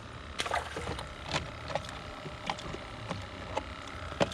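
Irregular knocks and clunks on a kayak, about seven spread over a few seconds, the loudest near the end, with a steady low background.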